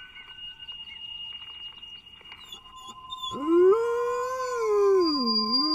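A broken radio gives off steady high electronic whining tones. About three seconds in, a collie starts howling along with it in a long, wavering howl that dips near the end, set off by a sound animals don't like.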